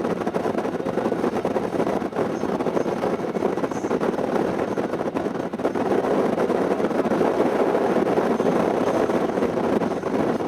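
Wind rushing over the microphone on a moving motorcycle: a loud, steady roar of noise with the bike's road and engine noise mixed in, cutting off suddenly at the end.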